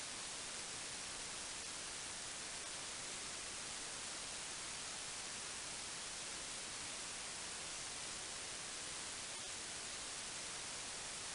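Steady, even hiss with no other sound: electronic noise from the recording chain.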